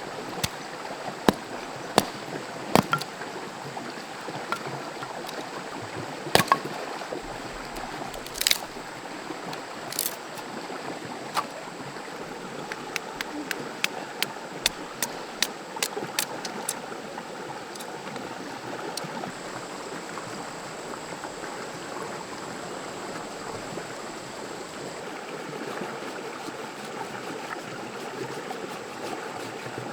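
Forest stream running steadily, with a scatter of sharp clicks and knocks over the first two-thirds, thinning out later.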